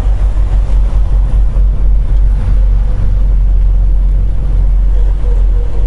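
Inside a moving semi truck's cab: a steady, loud low rumble of the diesel engine and road noise while driving.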